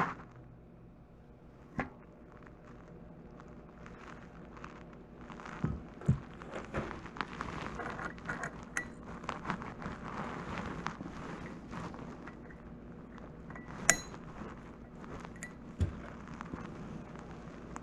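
Scattered metallic clinks and knocks, as of metal parts or tools being handled, with the sharpest clink about fourteen seconds in.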